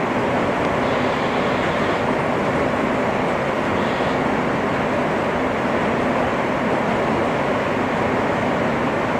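Steady rumble and rail noise inside a moving R160 subway car as it runs between stations, with no sudden changes.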